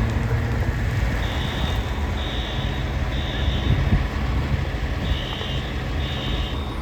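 Vehicle backup alarm beeping, a high tone about once a second, with one longer pause in the middle, over the steady low rumble of a running engine.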